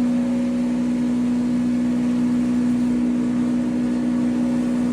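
A 10 HP maize granule grinding machine running steadily, with a constant, even hum.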